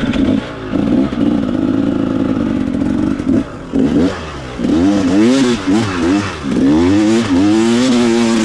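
Dirt bike engine running at a fairly steady pitch, then from about four seconds in revving up and down over and over as the throttle is worked on a steep hill climb.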